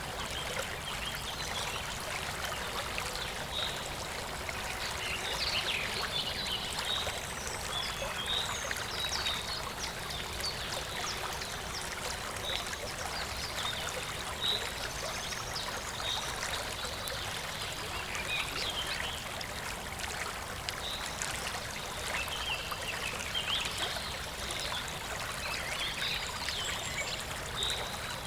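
Clear, shallow stream trickling and babbling steadily, with many small high-pitched plinks of water scattered through it.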